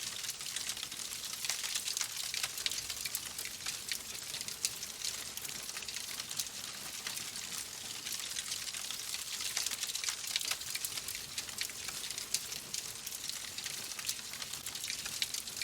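Fireplace fire crackling steadily: a dense run of small pops and snaps over a soft hiss.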